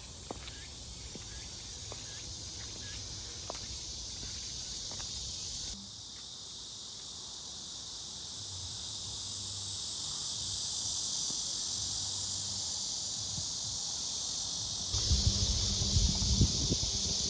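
Insects chirring steadily outdoors, a continuous high shrill drone that changes abruptly twice. Low rumbles and knocks come in near the end.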